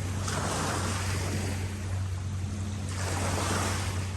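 Lake water washing against the shore in two swells, over a steady low hum.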